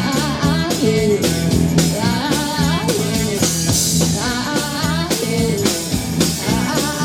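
Live band playing a blues-rock song: guitar and drum kit keeping a steady beat, with a melody line that bends up and down over sustained low notes.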